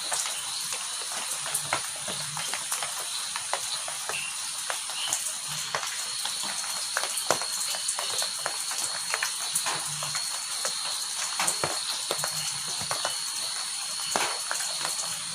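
Heavy rain falling steadily, with many sharp drops and drips hitting a hard surface. A faint steady high tone runs under it.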